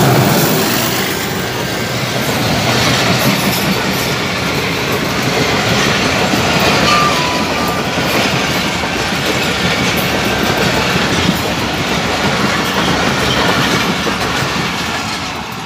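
Passenger train of Pakistan Railways coaches passing at close range, its wheels running loudly and steadily over the rails.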